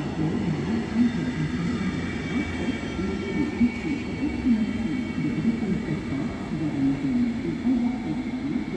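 SNCB passenger coaches rolling past alongside the platform: a steady rumble of wheels on the rails, with a couple of brief louder knocks.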